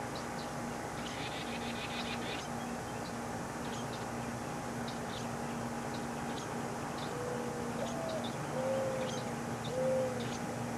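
A dove cooing: a short phrase of four low, smooth notes, the second rising, beginning about seven seconds in. Faint short high chirps of small birds come and go throughout, over a steady hum.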